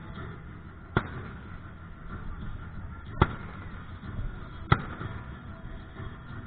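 Fireworks going off: three sharp bangs a second or two apart over a steady background rumble.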